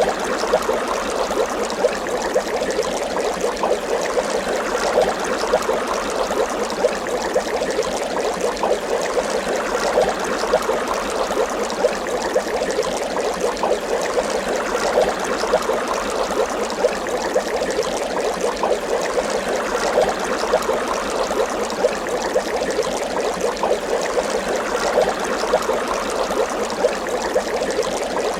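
Water bubbling steadily, a continuous dense mass of small bubbles popping and gurgling.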